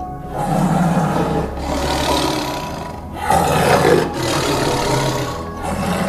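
A big cat roaring: several long calls one after another, over background music.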